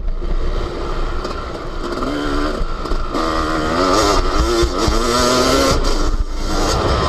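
Yamaha YZ250 two-stroke motocross engine revving up and down under changing throttle. The pitch climbs over the first few seconds, drops briefly about six seconds in, then rises again. Wind rumbles on the on-board microphone throughout.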